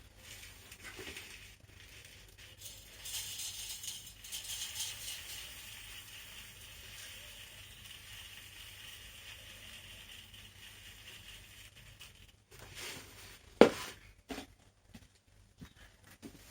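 Loose birdseed rattling and hissing as it pours, for several seconds. A sharp click comes near the end, followed by a few light knocks.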